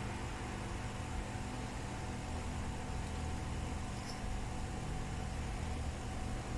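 Steady low hum over an even hiss, the background of running bench equipment.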